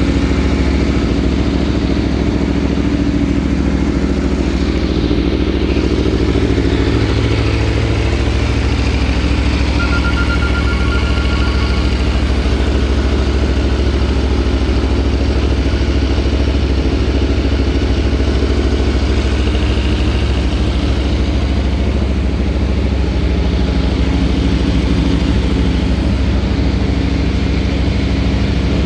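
Aprilia Tuono V4 1100 Factory's V4 engine running steadily without revving.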